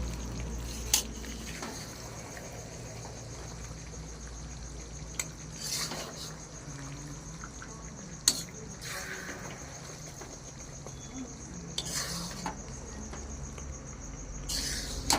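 Metal utensil clinking and scraping against a cooking pan as chicken karahi is stirred: a handful of separate scrapes and knocks several seconds apart, the sharpest about eight seconds in. A steady high-pitched tone runs underneath.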